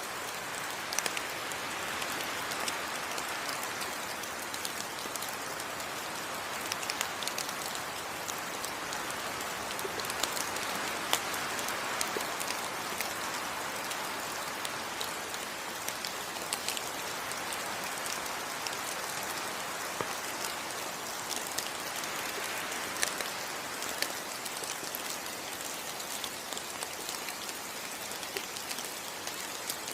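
Steady heavy rain falling on foliage, an even hiss with many individual drops ticking and pattering on leaves throughout.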